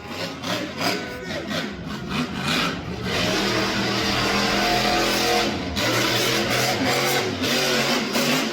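Monster truck engine revving, its pitch rising and falling with the throttle: choppy bursts for the first few seconds, then held loud at high revs with a brief drop about halfway through.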